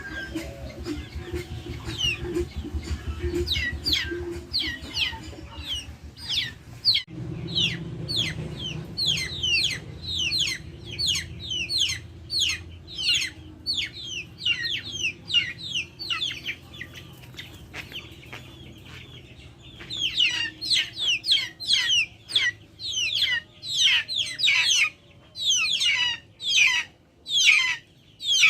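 Backyard chickens calling: a continuous stream of short, high-pitched, falling peeps and clucks, several a second. They break off briefly about seven seconds in and grow louder and denser in the last third.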